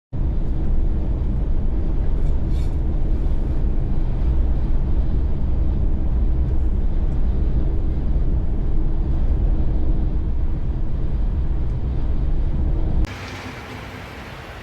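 Steady low drone of a truck's engine and road noise while driving, heard from inside the cab, with a constant engine hum running under it. Near the end it cuts off abruptly to a quieter, hissier background.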